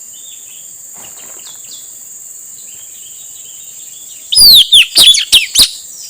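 Male blue-rumped parrot giving a quick burst of about six loud, shrill, falling calls about four seconds in. The calls sound over a steady high insect drone, with a few faint chirps earlier.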